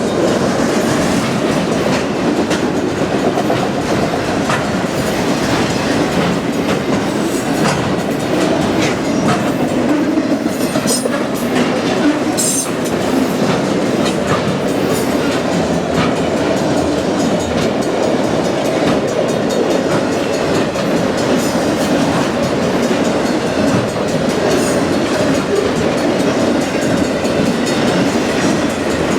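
BNSF autorack freight train rolling by: a steady rumble and rattle of the cars with continual clicks and clacks of wheels over the rails.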